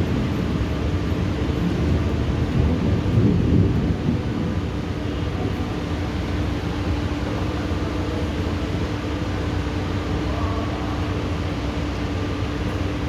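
Thunder rumbling low during a thunderstorm, swelling about two to four seconds in and then settling, over a steady wash of rain noise with a steady low hum underneath.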